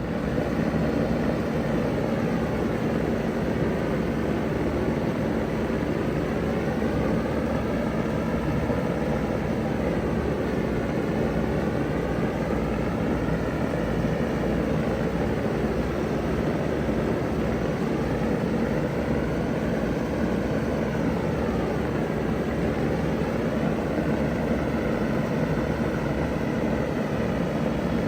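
Vintage ZoneAire wall-hung heat pump running in cool mode just after startup, coming up to full running noise in the first second: a steady rushing fan noise with a steady low hum underneath.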